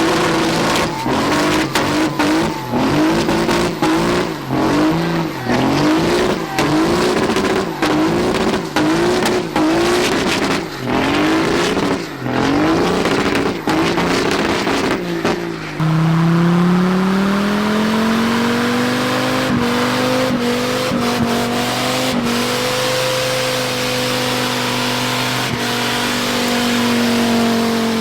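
Truck engine revved hard again and again, about once a second, then held at high revs with the pitch slowly wavering through the second half.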